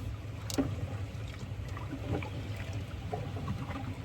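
Water trickling and splashing lightly around a kayak as it is paddled, over a steady low rumble, with a light tap about half a second in.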